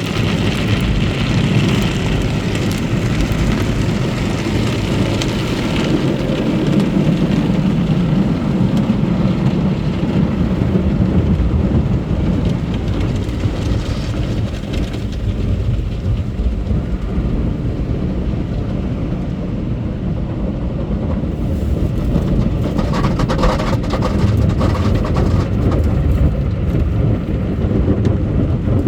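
Automatic car wash running: a steady, loud mix of machinery noise and spraying water, with most of the sound low down.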